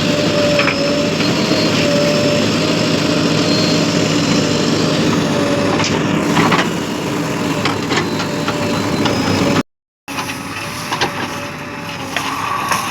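Heavy diesel engine of earth-moving machinery running steadily, with scattered short knocks and clanks. The sound drops out for a moment about ten seconds in and comes back somewhat quieter.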